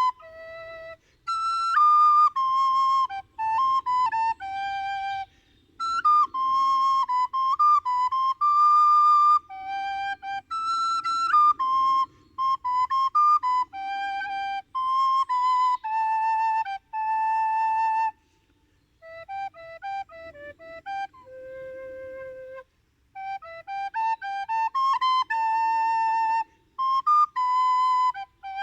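A solo flute-like wind instrument playing a slow melody in phrases of held notes, with a quick run of short notes about two-thirds of the way through and short pauses between phrases.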